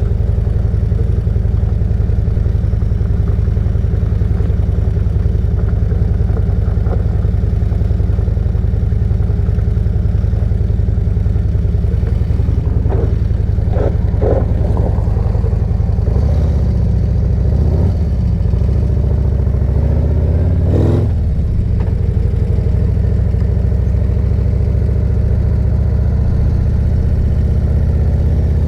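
A custom Harley-Davidson Road Glide ST's V-twin engine running under way, a steady low drone. Past the middle its note dips and rises a few times as the bike changes speed.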